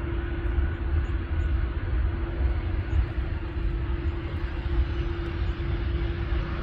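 Jet engines of an approaching Boeing 737-800 airliner, its CFM56 turbofans on final approach: a steady low rumble with a steady engine hum, growing louder near the end.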